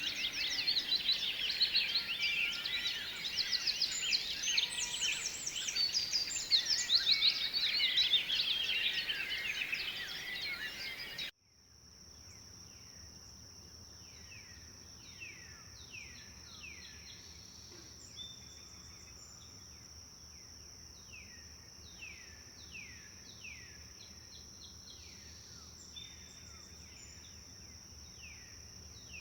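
A dense chorus of many songbirds, with rapid overlapping trills and chirps. About eleven seconds in it cuts off suddenly to a quieter scene. There a steady high-pitched drone runs under a bird repeating a falling whistled call about once a second.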